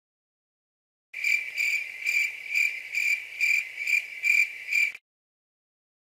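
Cricket chirping sound effect: a run of high, evenly spaced chirps, a little over two a second. It starts about a second in and cuts off suddenly near the end.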